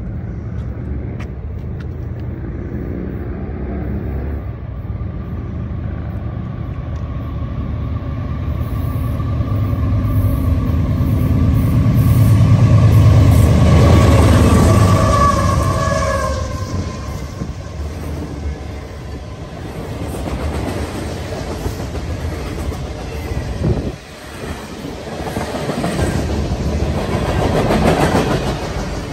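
Diesel freight train passing close by, led by Norfolk Southern and Union Pacific locomotives: the engines' low rumble builds to a peak about halfway through and eases off, then the freight cars roll past.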